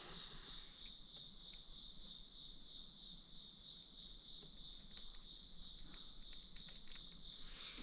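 Insects, crickets by the sound, trilling steadily in a high, continuous pulsing chorus, with a few faint light clicks about five to seven seconds in.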